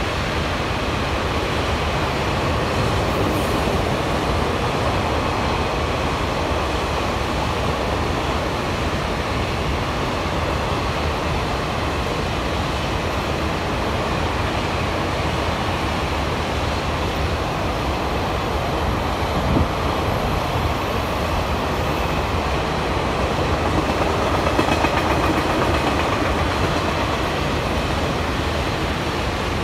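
Freight train of loaded open-top coke wagons rolling past at speed: a steady, continuous noise of wheels running on rail, with one sharp clack about twenty seconds in and a slight swell a few seconds later.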